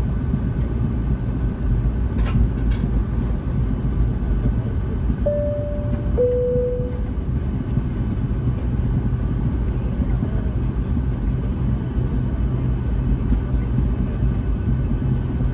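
Steady low rumble inside the cabin of a Boeing 757-200 near takeoff. About five seconds in, a two-tone high-low cabin chime sounds once.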